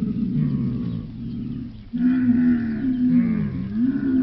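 Dromedary camel bellowing: a long, low, wavering moan whose pitch dips and rises, growing louder about halfway in.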